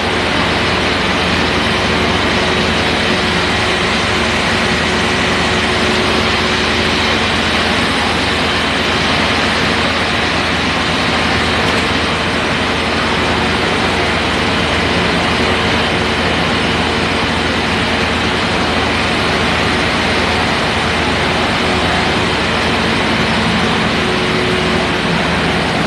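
A fire truck's engine idling steadily, an even low-pitched running sound that does not change.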